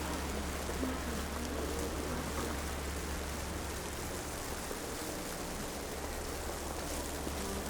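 Downtown street ambience in snowfall: a steady hiss like light rain over a low, even rumble, with a few faint short tones.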